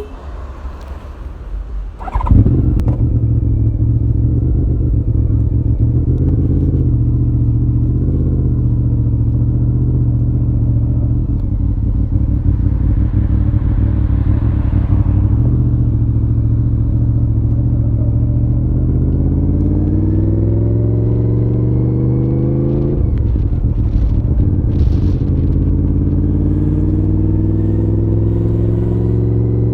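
1993 Honda VFR750F (RC36) 748 cc V4 engine through a modified stock muffler, starting up about two seconds in and then idling steadily. Later its revs climb slowly, drop sharply, and climb slowly again.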